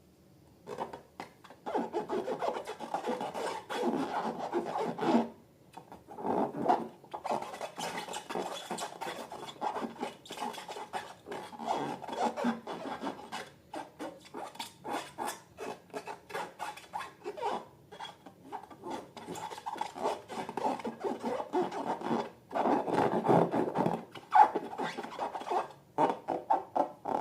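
Hands squeezing and rubbing slime, a quick, irregular run of rasping, crackly strokes that starts about a second in and pauses briefly twice.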